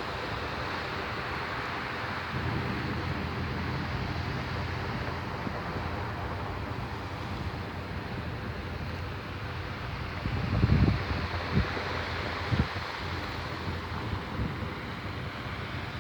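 Choppy saltwater surf washing onto the shore in a steady rushing wash, with a few low rumbling thumps a little after the middle.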